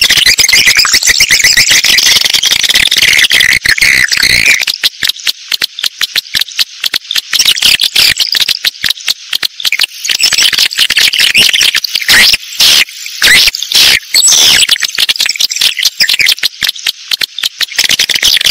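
Recorded calls of edible-nest swiftlets: a loud, dense chorus of rapid twittering chirps and clicks. It thins after about four seconds into faster click trains with short gaps, and a few louder bursts come near the middle. This is a swiftlet-house lure call, played to draw swiftlets in to roost and nest.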